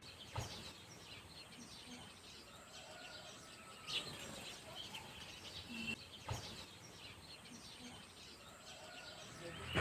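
Faint outdoor birdsong: many small birds chirping in quick short notes, with a few soft knocks in between.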